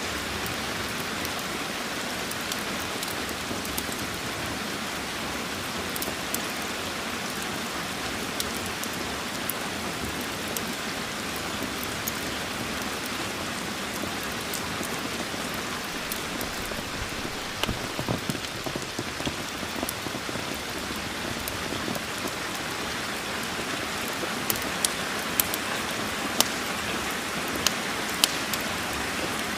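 Steady rain with a crackling wood fire: scattered sharp pops, in a brief cluster midway and more often near the end.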